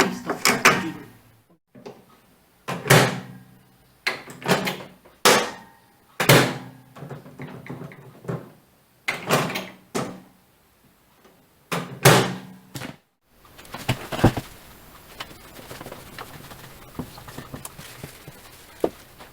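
Microwave oven door being opened and shut again and again: about a dozen sharp knocks and latch clacks, often in close pairs, as the door is tried out on its repaired closer. After about 14 s the knocks stop and only a faint steady noise with light ticks remains.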